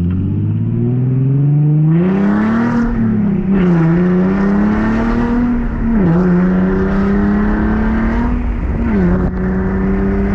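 Nissan 370Z's V6 with a new loud aftermarket exhaust accelerating hard through the gears. The engine note climbs in pitch, then drops at each upshift, about three, six and nine seconds in.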